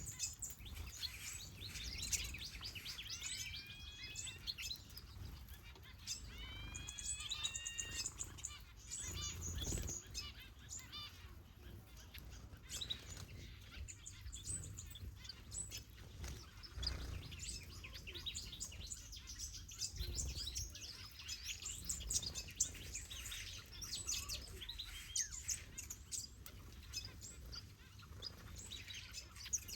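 Many small aviary birds, finches and softbills, chirping and calling together in a dense overlapping chatter, with a couple of clear rising whistles a few seconds in, over a low steady rumble.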